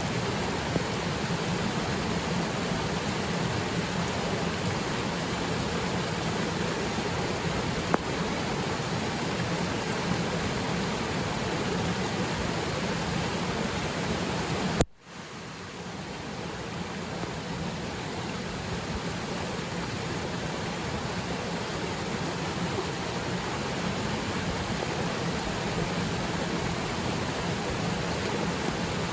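Waterfall pouring steadily into its pool, with rain falling on the water. About halfway through there is a click and a sudden brief dropout, then the water sound swells back over a couple of seconds.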